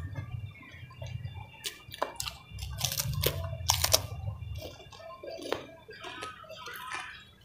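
Close-up eating sounds: wet chewing and lip smacks from a full mouth, with a cluster of sharp crunchy bites about three to four seconds in, as raw vegetables are eaten.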